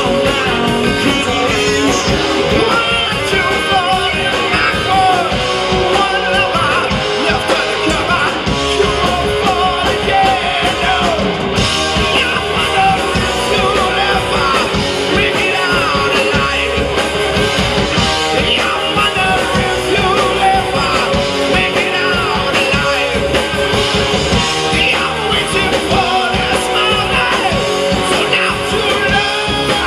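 Live rock band playing a song: electric guitars, bass and drums with a lead singer, loud and continuous.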